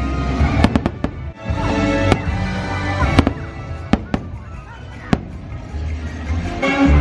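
Fireworks bursting in a quick, uneven series of sharp bangs, about a dozen, over the show's music soundtrack.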